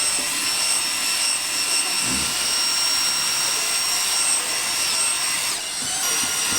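Small high-speed electric motor, like a power drill's, running steadily with a high-pitched whine; its pitch shifts slightly near the end.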